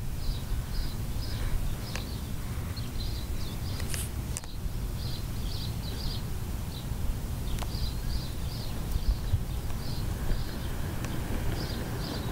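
Bird chirping: short, high chirps repeated in quick runs of three or four, over a steady low rumble.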